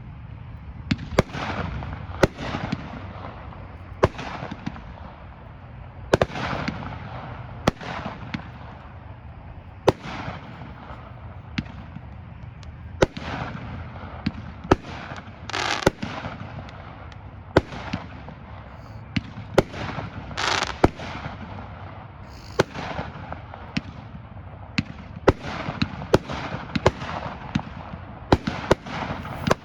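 Multi-shot consumer firework firing a long run of sharp reports, roughly one to two a second at uneven spacing. Each report trails off in a brief rush of noise, and a few longer bursts come around the middle.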